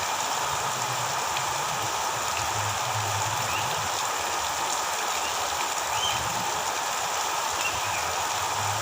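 Steady hiss of water, like rain or a stream, with a few faint, short high chirps.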